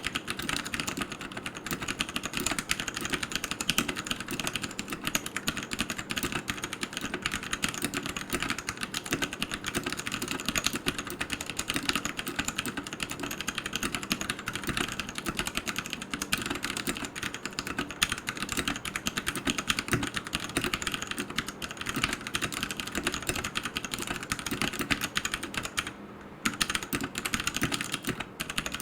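Fast, continuous typing on a Royal Kludge RK100 mechanical keyboard with brown tactile switches: a steady stream of key clicks, pausing briefly near the end.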